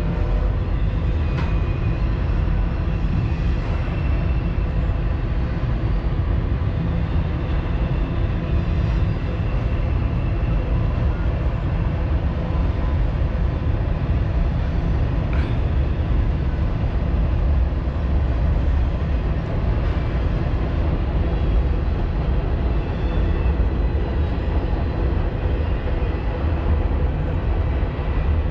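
Double-stack container freight train rolling past: a steady rumble.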